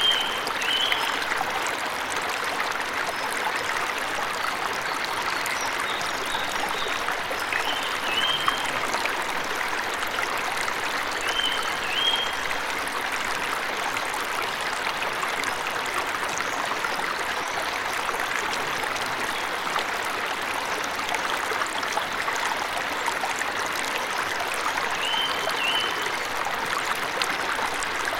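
Steady rushing of a forest stream or small waterfall, with a bird giving short high chirps, mostly in pairs, four times over the stretch.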